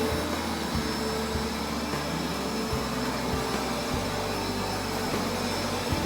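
Upright carpet-washing vacuum running steadily while cleaning a carpet: a motor whine with a low hum, and a few faint knocks now and then.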